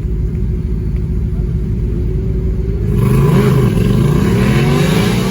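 Car engines rumbling at low revs, then, about three seconds in, several engines revving hard at once, their pitches rising and falling across each other.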